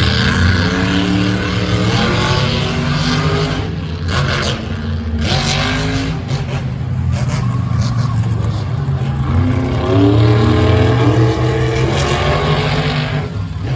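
Monster truck engine running hard and revving up three times, its pitch climbing each time over a loud, steady low drone.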